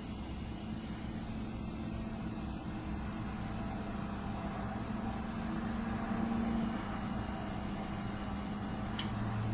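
Low steady rumble of passing road traffic that swells a little in the middle, under a high-pitched whine from the camera's hard drive that cuts in and out. A single click near the end.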